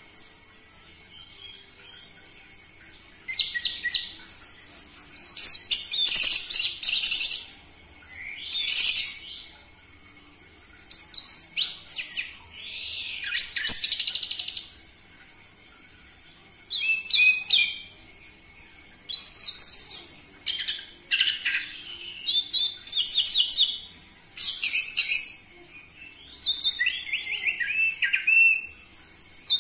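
Orange-headed thrush (anis merah) singing loud, varied high-pitched song phrases of one to two seconds each, about a dozen with short pauses between. This is a lure song used to provoke captive thrushes into singing.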